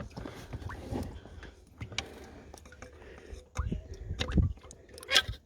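Irregular clicks and knocks of hand work, with heavier thuds about three and a half and four and a half seconds in.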